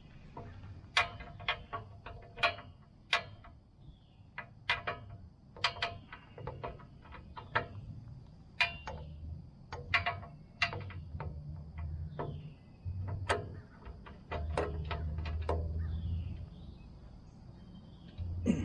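Scattered sharp metal clicks and taps of a small 1/4-inch drive ratchet with a 10 mm socket, working the bolts out of the engine's pull-start cover. A low rumble sits underneath for a few seconds in the second half.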